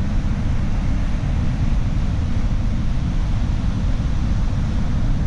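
Steady low rumble and rush of a vehicle driving along beach sand, without a break.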